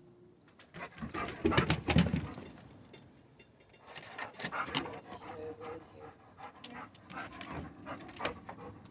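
Dog panting in quick, irregular breaths, loudest between about one and two seconds in.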